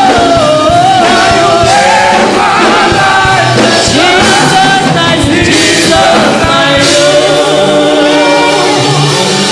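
Gospel worship song: voices singing with vibrato over a band with a steady drum beat.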